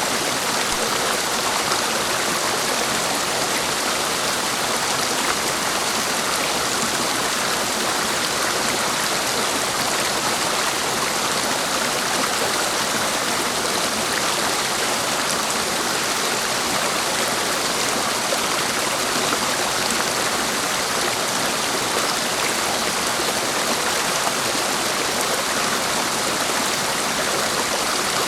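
Clear mountain stream of running water, rushing steadily with no change in level.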